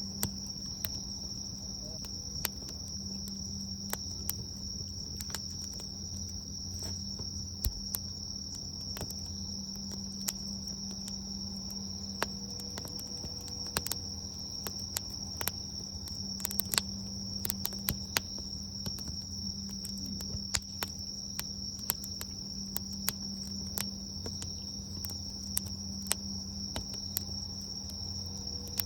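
Bonfire crackling with irregular sharp pops from the burning wood, over a steady high-pitched insect trill.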